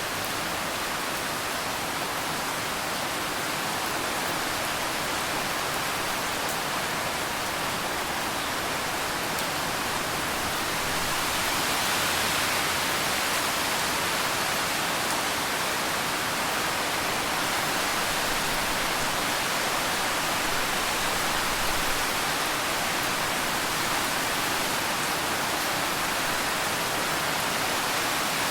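Steady rain falling, an even hiss that swells slightly about a third of the way in.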